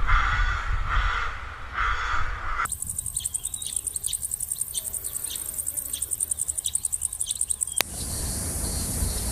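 A crow cawing in a steady series of harsh calls. It cuts suddenly to a rapid, high-pitched insect trill, like a cricket at about eight pulses a second, with short bird chirps over it. That cuts in turn to an even hiss near the end.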